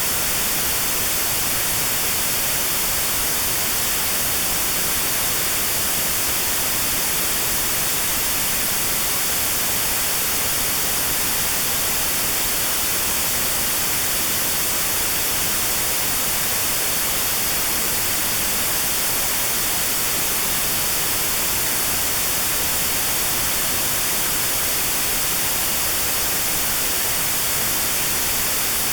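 Notch-filtered white noise: a steady, even hiss with a narrow band around 4 kHz cut out, made as notched sound therapy for tinnitus.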